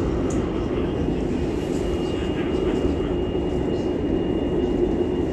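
Metro train running through a tunnel, heard inside the carriage: a steady rumble of wheels and motors with a faint, steady high whine.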